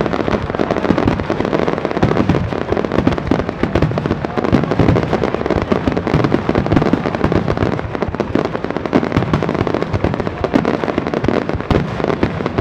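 A wide starmine firework barrage at its finale: shells bursting in rapid, overlapping succession, a continuous dense rumble of bangs and crackles with no pause.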